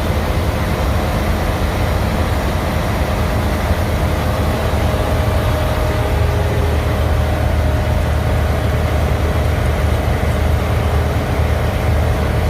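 Semi-truck's diesel engine running steadily, a continuous low rumble heard from inside the cab.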